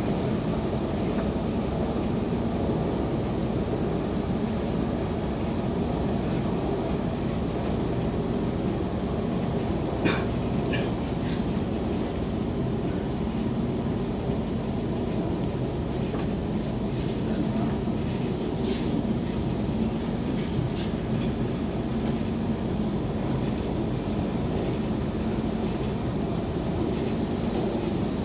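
MTR K-Train electric metro train running between stations, heard from inside the car: a steady rumble with a thin high whine, and a few short clicks from the wheels on the track about midway through.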